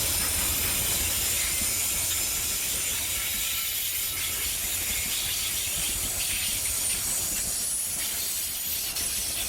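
A train running on the line: a steady low rumble under a high hiss.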